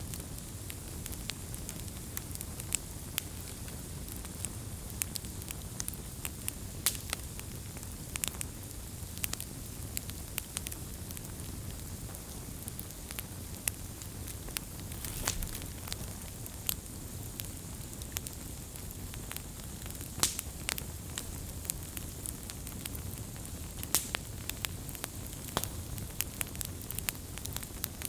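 Wood fire burning, a steady low rush of flames with sharp pops and crackles at irregular intervals.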